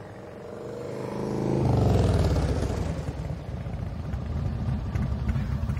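Motorcycle engines coming close, their pitch dropping over the first second or so. A loud, low engine rumble swells in about two seconds in and keeps running.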